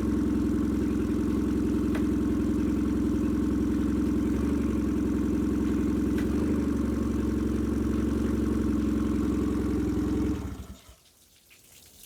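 2006 Nissan 15 hp four-stroke outboard motor running steadily on flushing muffs, then stopping about ten seconds in.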